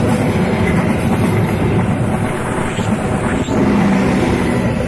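Gajayana passenger train's coaches passing at speed, a loud steady rumble of steel wheels on the rails; the last coach goes by near the end.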